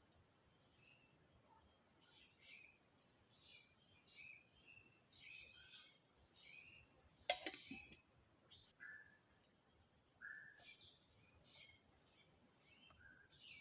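Steady high-pitched drone of forest insects, crickets or cicadas, with scattered short chirping calls over it. A single sharp click or snap cuts through about seven seconds in.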